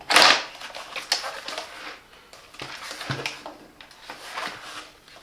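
Hard plastic parts of a cordless stick vacuum being handled: a short loud scrape-like burst at the start, then scattered light clicks and knocks.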